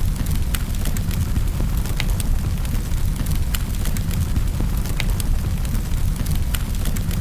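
Wood fire crackling in a fireplace: scattered sharp pops and snaps, several a second at irregular intervals, over a steady low rumble of the flames.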